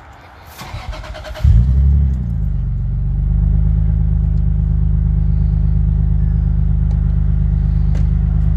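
Toyota 2JZ-GTE twin-turbo inline-six cranked on the starter and catching about a second and a half in, with a brief rev flare, then settling into a steady, loud idle through the exhaust.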